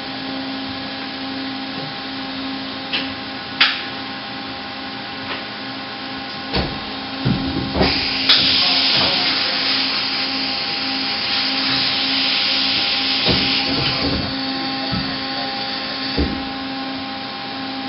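Kia KH40A horizontal machining center running through its tool-change cycle: a steady machine hum with several clunks and knocks from the tool changer, and a loud hissing rush from about eight to fourteen seconds in.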